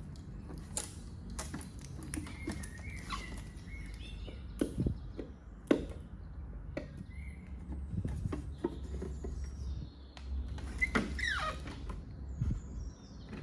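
Handling of the espresso machine's removable plastic water tank: scattered clicks and knocks, with a couple of short squeaks about two seconds in and again near the end, over a low steady hum.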